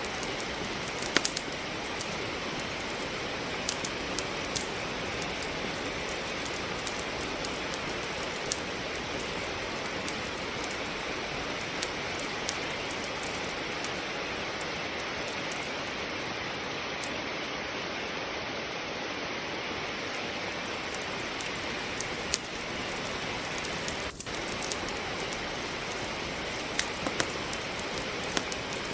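Steady hiss of rain falling, with scattered sharp pops and cracks from wood burning in a fireplace, bunched about a second in and again near the end.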